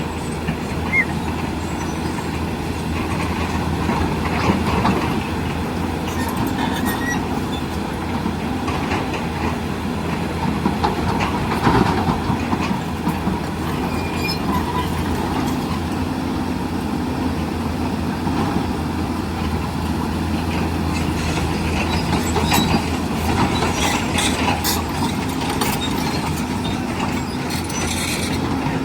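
Hyundai hydraulic excavator's diesel engine running steadily under load, with scattered metallic clanks and knocks from the machine at work.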